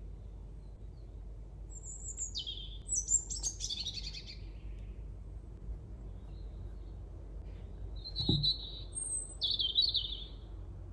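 Songbird chirping in two short phrases of high, thin notes that step down in pitch, over a low steady hum, with a soft knock just before the second phrase.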